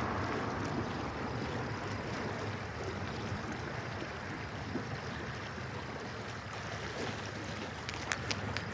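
Steady wind noise on the microphone, with a low rumble, and a run of sharp clicks starting near the end.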